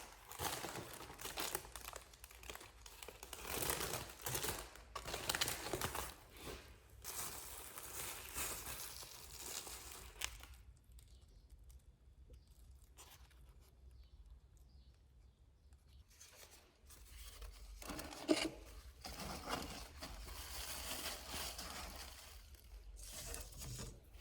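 Packaging being crinkled and torn by hand in irregular bursts, with a quieter pause in the middle before the handling picks up again.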